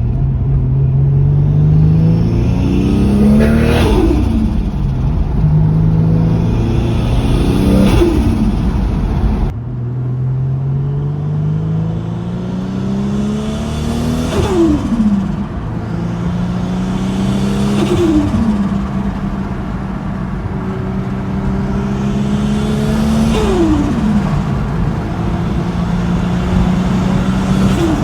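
Turbocharged Nissan Skyline engine pulling hard under boost, its pitch climbing slowly, then dropping sharply on lift-off about five times. Each lift-off brings the flutter of the GT3076R turbo's compressor surging, as there is no anti-surge housing.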